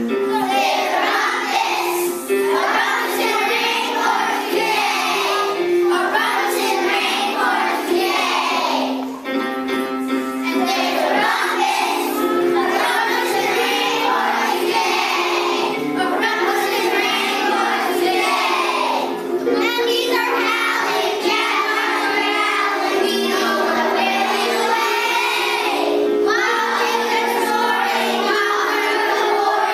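A group of children singing a song together over instrumental accompaniment, with a brief break in the singing about nine seconds in.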